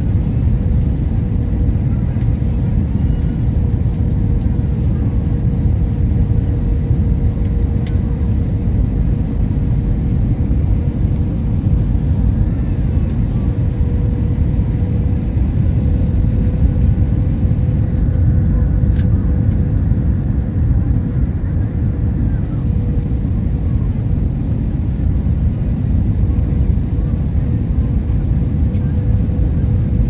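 Airliner cabin noise on approach to landing: a steady low rumble of engines and airflow with a constant hum running through it.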